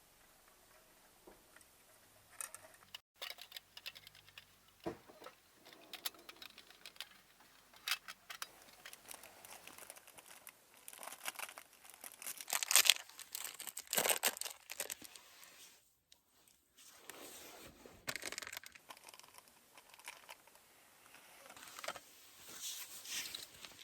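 Crinkling and rustling of paper or plastic being handled, in short irregular bursts with scattered clicks.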